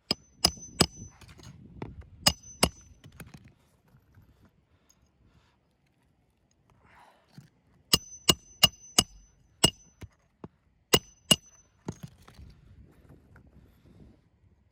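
Hammer striking metal: sharp blows with a short metallic ring, in runs of two to five with pauses between.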